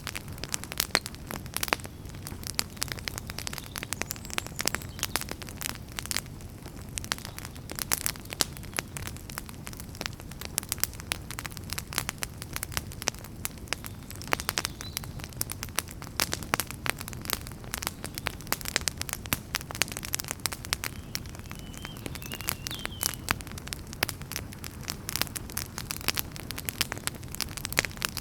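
Fire burning in a fireplace, crackling steadily with dense, irregular snaps and pops over a low rumble of the flames. A faint, brief whistle rises about three-quarters of the way through.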